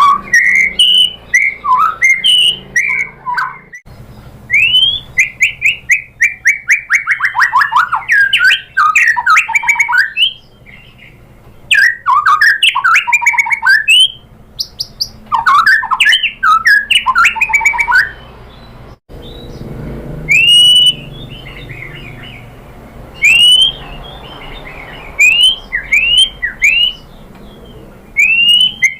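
White-rumped shama singing: loud, fast phrases of sweeping whistles, rapid trills and sharp clicking notes, separated by short pauses. About two-thirds of the way through, the song changes to single rising whistled notes every second or two.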